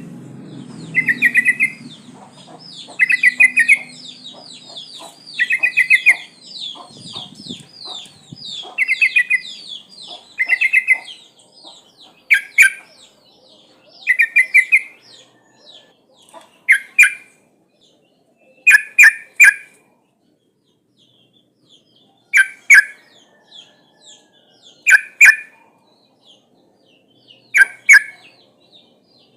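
Yellow-vented bulbul (trucukan) calling: short bright phrases repeated every couple of seconds. For the first several seconds they come over a fast, high chatter of smaller falling notes. Later they come as sharp clusters of two or three notes with pauses between. The calls are offered as a female's call to lure males, and a low rumble sits under the first few seconds.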